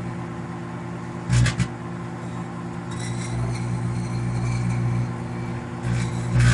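Microwave oven running with plasma inside: a steady electrical hum, with a short louder burst about a second and a half in and a faint buzzing hiss from about halfway.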